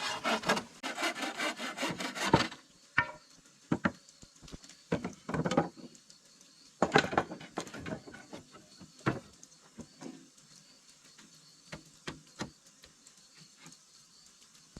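Wood being worked by hand: a quick run of rough sawing or rasping strokes, then a few shorter bursts and scattered knocks and taps that thin out toward the end.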